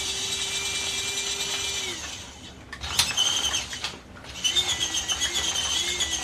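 Small electric drive motor of a 1/16-scale RC truck whining under throttle, in two runs with a sharp click between; the pitch wavers in the second run. Only the front end drives, since the rear drive shaft is not yet fitted.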